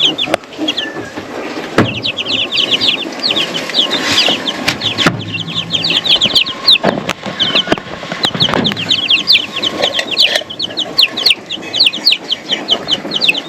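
A brood of about ten baby chicks peeping: many rapid, high, short peeps overlapping without pause, with a few sharp clicks and knocks among them.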